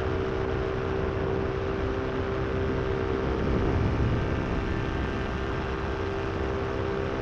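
Paramotor's Moster 185 two-stroke single-cylinder engine running at a steady throttle in flight, its propeller drone holding one even pitch. Low wind rumble sits under it.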